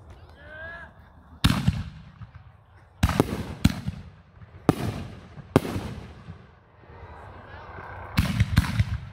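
Aerial firework shells bursting overhead: about eight sharp bangs, each with a short rumble after it. Three come in quick succession near the end.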